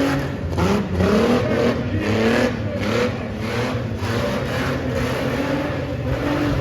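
Tough-truck engine revving hard in repeated surges, its pitch climbing and dropping off several times in a row as the throttle is worked through a jump section of the course.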